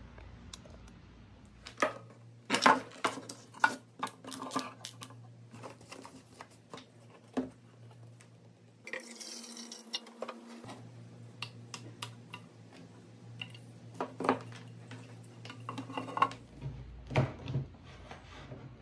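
Hard plastic parts and a clear acrylic box clacking and knocking as they are handled on a workbench, followed by a hiss of about two seconds as hydrogen peroxide is poured from a plastic jug into the box. More clacks come near the end as a lamp is set on top.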